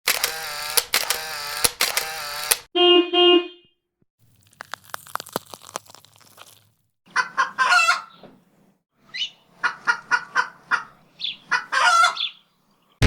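A run of short sound effects: rapid camera shutter snaps, then one short car horn honk, then crisp cracking of celery being snapped, then chickens clucking in repeated bursts for the last five seconds or so.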